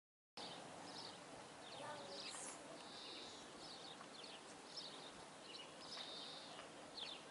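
Faint outdoor ambience with birds chirping, many short high calls over and over and a couple of longer buzzy ones; the sound cuts in abruptly just after the start.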